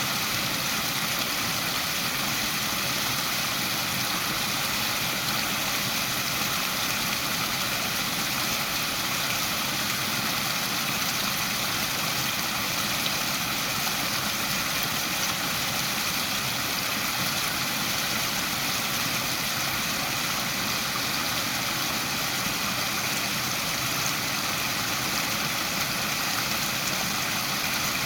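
Waterfall: water falling and splashing, a steady, even rush with no breaks.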